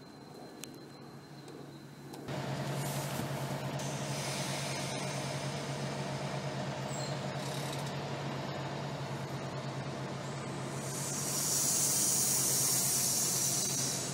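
NJ Transit passenger train passing close by: steady running noise with a low hum, starting abruptly about two seconds in after quieter car ambience. A loud hiss swells near the end.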